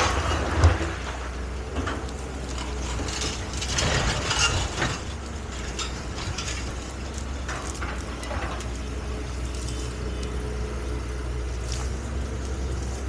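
Excavator's diesel engine running steadily, with bursts of metallic clanking and rattling from the machine about half a second in, around four to five seconds, and again around eight seconds.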